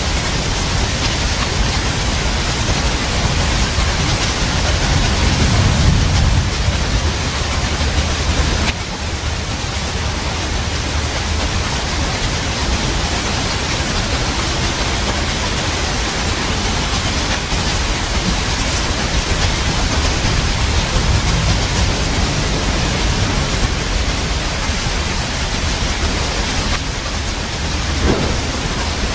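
Steady heavy rain with a low roll of thunder swelling about five seconds in and a fainter one later. The level steps down slightly just before nine seconds.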